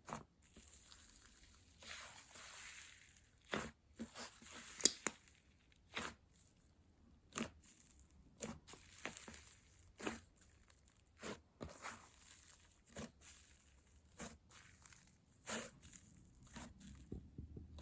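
Slime being squeezed and stretched by hand: sharp sticky pops and clicks at irregular intervals, with a few longer stretches of soft crackling.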